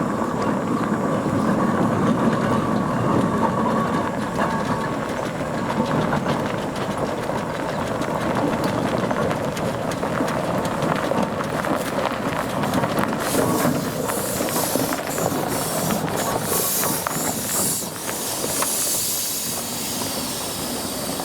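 Steam traction engine running on the road: a steady rapid clanking and chuffing. From about thirteen seconds in, a steam hiss joins it.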